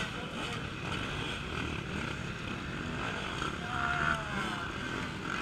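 Off-road racing motorcycles running on the course, the engine pitch rising and falling as a bike revs about three and a half seconds in.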